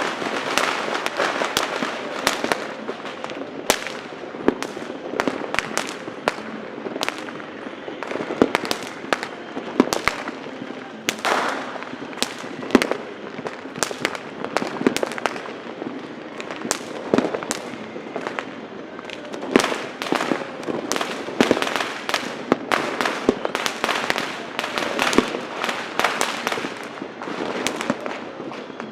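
Fireworks and firecrackers exploding without pause: sharp bangs several times a second over a dense, continuous crackle.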